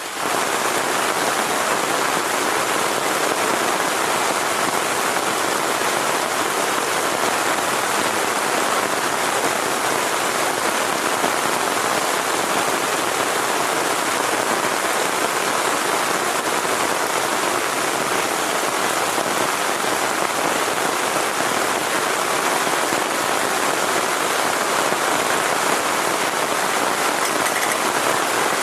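Heavy rain falling without a break, a dense, even hiss that steps up sharply right at the start and then holds steady.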